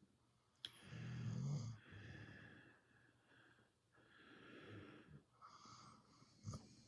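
Pit bull snoring gently in its sleep. A low, buzzing snore about a second in is the loudest, followed by several softer breathy snores, with a couple of small clicks.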